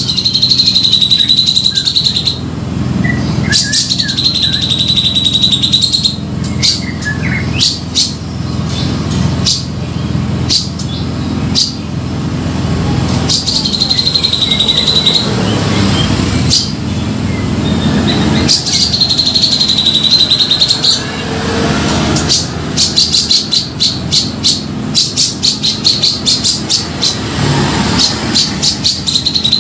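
Grey-cheeked bulbul (cucak jenggot) singing over and over: drawn-out high whistled phrases alternating with rapid runs of short chattering notes, with a steady low hum underneath.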